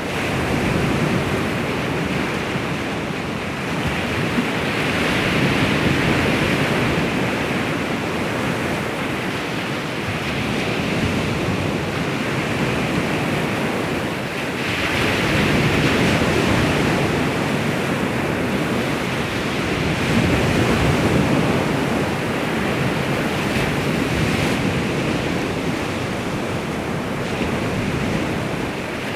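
Baltic Sea waves washing onto the shore: a continuous rushing surf that swells and eases every several seconds.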